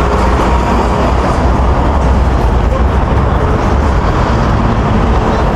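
Busy road traffic running past, a steady noise with a deep engine rumble underneath.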